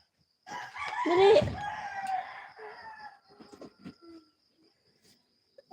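Rooster crowing once, a long call of about two seconds, followed by a few short faint sounds.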